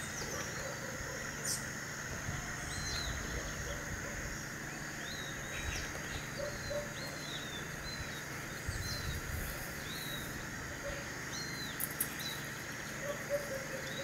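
Birds calling: short, high chirps repeated about once or twice a second over a steady high-pitched drone.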